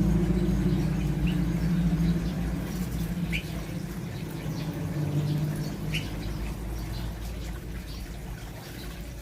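Small cage birds chirping a few times in short single notes over a loud low hum that slowly fades away.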